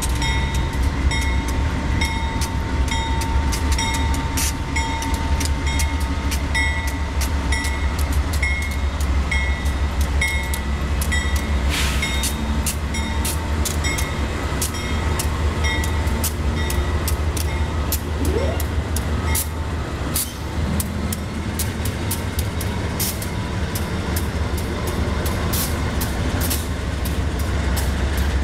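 Union Pacific AC4400CW diesel-electric locomotives passing at speed with a steady low rumble, followed by double-stack container well cars whose wheels click over the rail joints, the clicks coming thicker toward the end. A pulsing high ringing tone carries through the first dozen seconds.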